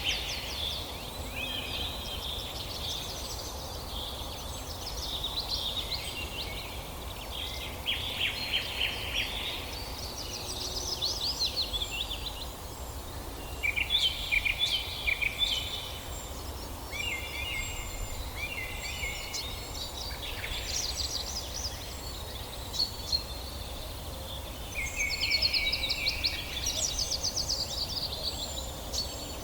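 Several songbirds singing at once in a forest dawn chorus: fast trilled and chirped phrases, each a second or two long, overlapping and following one another without a break, over a faint low rumble.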